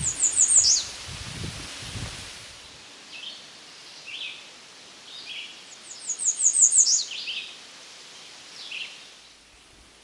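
Male American redstart singing: two phrases, each a quick run of thin, very high notes ending in a downward slur, one near the start and one about six seconds in. Fainter short, lower notes come in between, and there is a low rustle in the first two seconds.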